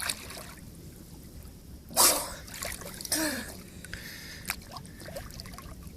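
Sea water splashing in two short bursts, about two seconds in and again a second later, over a quiet trickling, lapping background.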